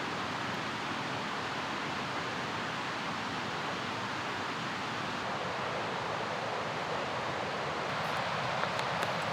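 Steady rushing of a fast mountain river, even and unbroken, with a few faint clicks near the end.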